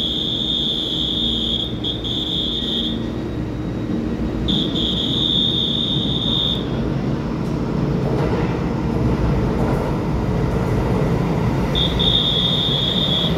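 Electric multiple-unit trains running through an underground station: a steady rumble that grows louder from about eight seconds in as a silver-and-green EMU900 commuter train moves past the platform. Over it, a high electronic warning tone sounds three times, each beep about two seconds long.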